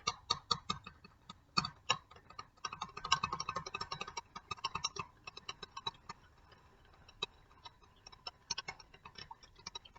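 A utensil clicking and tapping rapidly against the sides of a container as white paint is stirred into water. The clicking thins out about halfway through.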